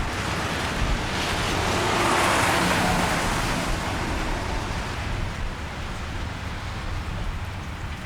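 A car passing on a wet street, its tyre hiss swelling to a peak about two seconds in and then fading away. Steady rain runs underneath.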